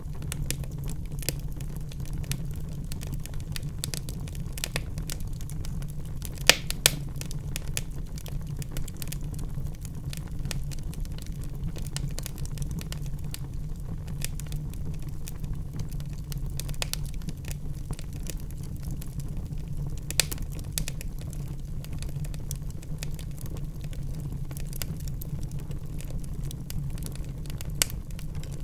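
Wood fire in a fireplace crackling steadily over a low rumble, with a few louder pops: two close together about six and a half seconds in, one around twenty seconds, and one near the end.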